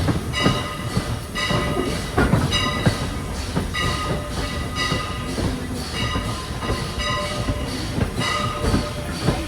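A locomotive bell ringing steadily, about once a second, over the low rumble and clatter of a moving train.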